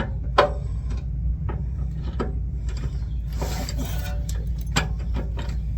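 Sharp metal clicks and knocks of a socket wrench on a long extension working at a rusted idler-arm bolt, the loudest about half a second in, with a short scraping rub a little past the middle. A steady low hum runs underneath.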